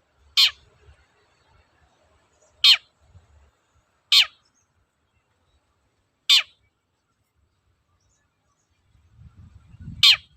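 Long-tailed shrike (cendet) calling: five short, sharp calls at uneven gaps, each a quick downward sweep from very high to low pitch.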